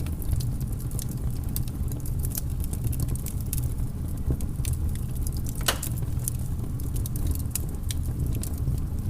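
Campfire burning: a steady low rumble under many small crackles and snaps, with one louder pop a little under six seconds in.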